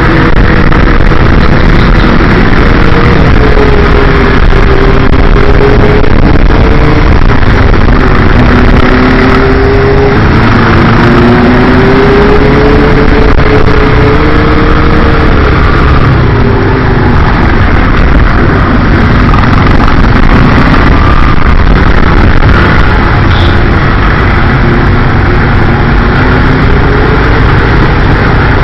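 TVS Metro's single-cylinder four-stroke engine running while riding in traffic, its note rising and falling slowly with the throttle, under heavy wind rush on the microphone.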